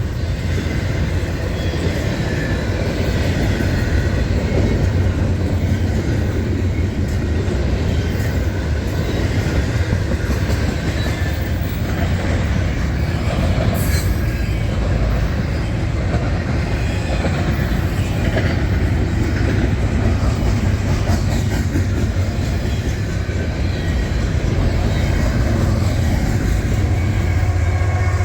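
Freight train cars rolling steadily past close by, a continuous rumble with steel wheels clattering on the rails and faint wheel squeal.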